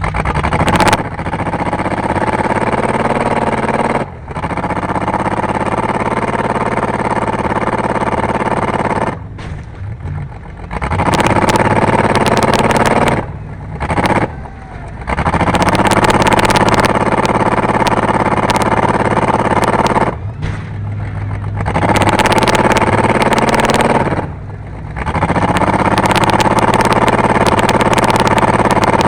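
Race car engine at hard throttle, dropping off briefly every several seconds and climbing in pitch again each time, with loose metal rattling over it.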